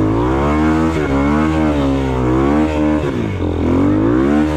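Off-road motorcycle engine revving, the pitch rising and falling several times as the throttle is worked.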